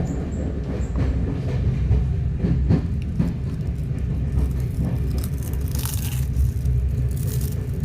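Passenger train running with a steady low rumble, with scattered knocks and a hiss of wheel and rail noise.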